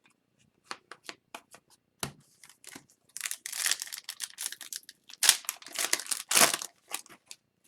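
A few light clicks of trading cards being handled, then a hockey card pack wrapper torn open and crinkled for about four seconds, starting about three seconds in.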